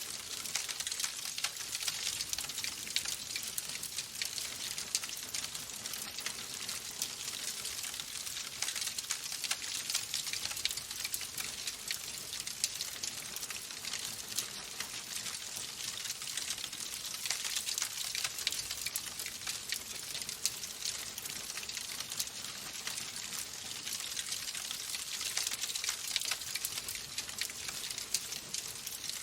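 Wood fire in a fireplace crackling: a dense, steady run of small pops and snaps over a soft hiss.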